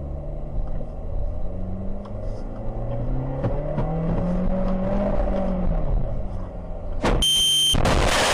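A car engine speeding up and easing off, its pitch rising then falling. Near the end comes a sharp bang, a brief high beep, then a loud burst of noise.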